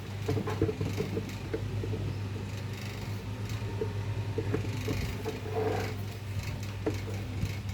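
Table fan's electric motor humming steadily, with scattered light clicks and scrapes of handling over it.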